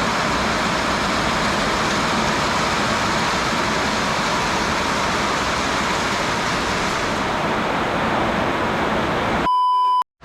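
Heavy tropical rain pouring down, a steady hiss of downpour. Near the end it gives way to a brief electronic tone, then cuts off suddenly.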